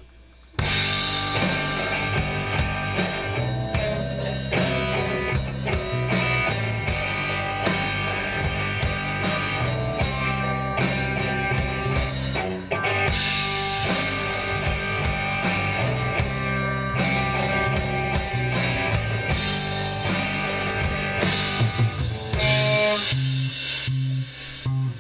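A three-piece rock band (guitar, bass guitar and drum kit) comes in together about half a second in and plays an instrumental intro with a steady drum beat and bass line, without vocals.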